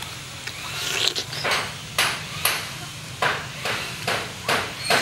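A person eating and chewing noisily at close range, with sharp smacking mouth sounds about twice a second.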